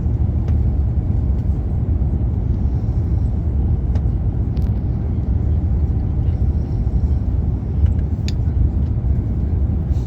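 Steady low rumble of a vehicle in motion, heard from inside, with a few faint clicks and rattles.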